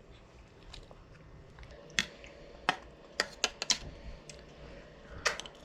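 A handful of sharp, irregular clicks and taps at a baby's mealtime, such as tableware or a small mouth smacking, the loudest about two seconds in.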